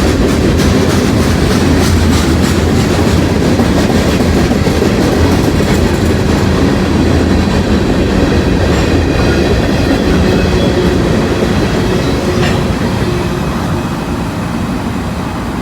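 Freight cars of a long mixed-manifest train rolling past, with wheels clacking over the rail joints and a faint squeal of wheels. The sound eases off slightly near the end.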